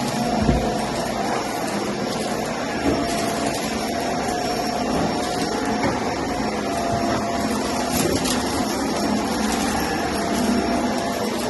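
Vacuum cleaner running steadily on carpet, with a short low knock about half a second in.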